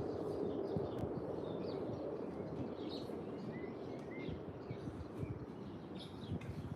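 Several birds chirping with short, repeated high notes, some brief rising-then-falling whistles among them, over a steady low background rumble.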